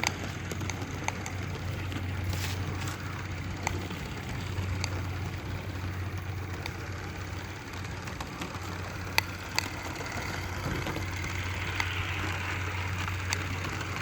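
Live-steam model locomotive running on garden-railway track: a steady low hum and hiss with occasional sharp clicks.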